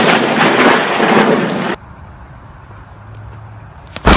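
Thunderstorm noise: heavy rain and rolling thunder, which stop abruptly less than two seconds in. After a quieter stretch with a low hum, a sudden very loud crack of a close lightning strike comes near the end.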